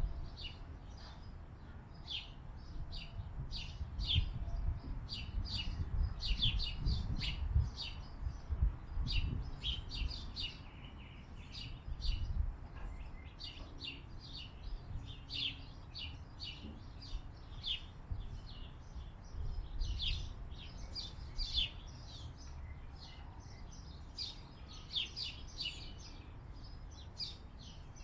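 Small birds chirping continuously, many short high chirps in quick succession, over a low rumble.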